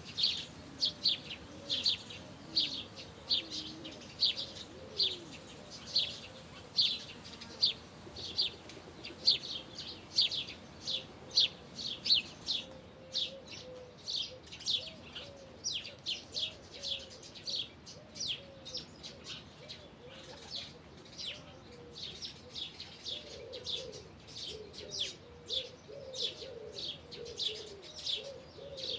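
A songbird chirping steadily, about two short sharp chirps a second, with soft low cooing from a dove underneath that grows a little stronger near the end.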